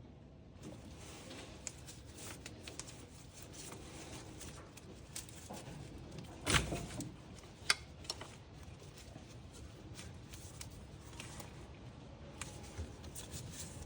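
Faint handling noises of hands and tools working on engine-bay hoses and connectors: scattered small clicks and rustling, with a louder knock about six and a half seconds in and a sharp click about a second later.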